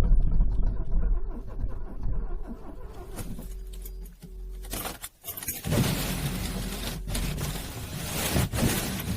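Car's starter motor cranking a cold engine that is struggling to start in freezing weather. The cranking drops off briefly about five seconds in, then starts again louder and rougher.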